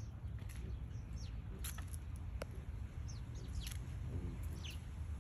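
Small birds chirping: several short, high, falling chirps scattered through, over a steady low rumble.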